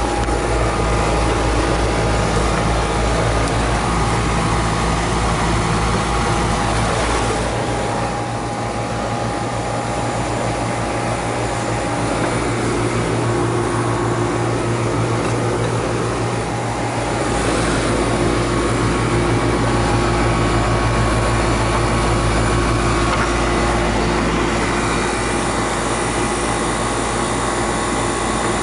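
A 20-year-old air-conditioning condensing unit running steadily: a constant mechanical hum with several steady tones, at this point running normally before any fault noise develops.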